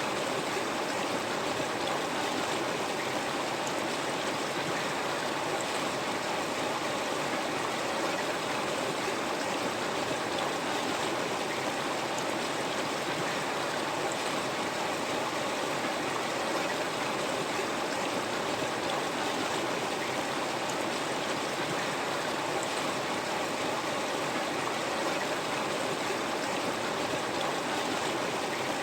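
River water flowing steadily over rocks, a constant rushing and babbling with no breaks.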